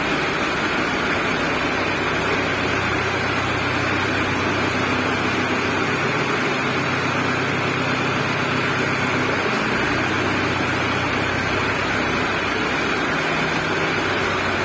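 Mahindra Arjun 555 tractor's diesel engine running steadily.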